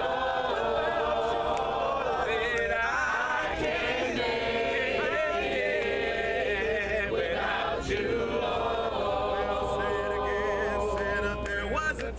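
A cappella congregation singing in harmony with no instruments, many voices holding long notes.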